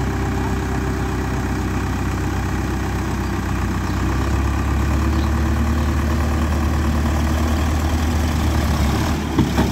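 Tractor engine running steadily, growing louder about four seconds in, with two short knocks near the end.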